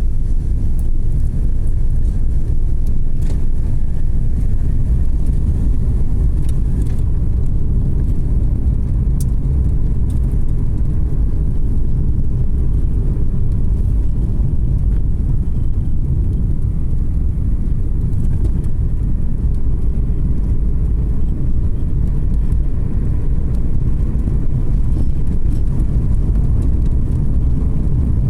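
A car driving along a road, with a steady low rumble of engine and tyre noise and a few faint clicks.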